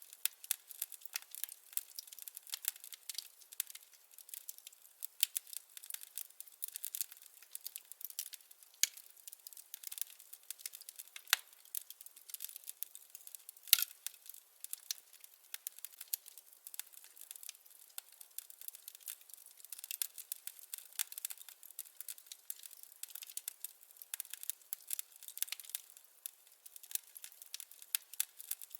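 Wood fire crackling in a fireplace: a steady run of small irregular pops and snaps, with one sharper pop about fourteen seconds in.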